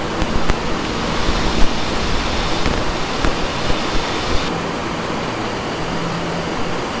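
Steady loud rushing hiss with a few faint clicks; about four and a half seconds in its top end drops away and a low steady hum comes in.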